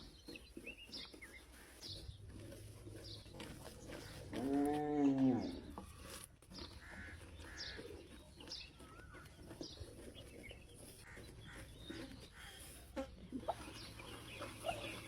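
Birds chirping in short repeated calls, and about four seconds in one loud drawn-out animal call that rises and then falls in pitch.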